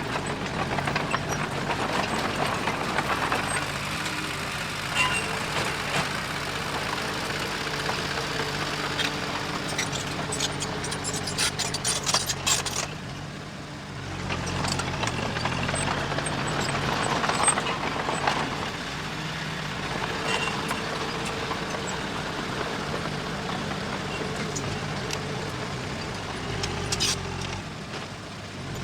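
Diesel engine of heavy earthmoving machinery running, with metallic clanks and rattles about ten to twelve seconds in. The engine eases off briefly past the middle, then swells again.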